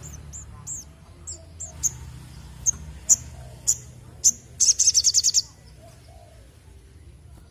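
A sogon (sogok ontong, the little spiderhunter) singing: a string of short, high chirps that grow louder, breaking into a fast trill about four and a half seconds in, over a low steady hum.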